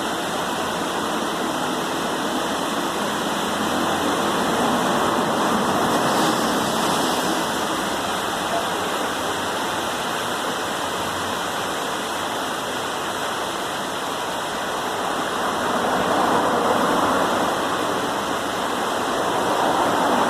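Rain starting to fall, a steady hiss that swells louder twice, a few seconds in and again near the end.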